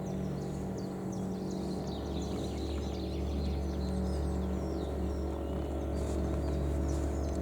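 Small birds chirping and singing in quick, high calls over a steady low hum.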